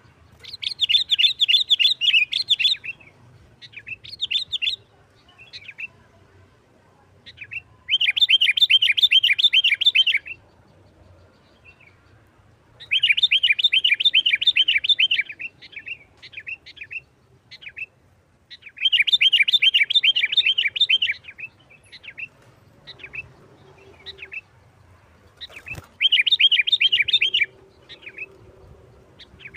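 Sooty-headed bulbul (kutilang) singing in its fast, aggressive fighting-style song: five bouts of rapid chattering trills, each about two seconds long, with short single notes between them.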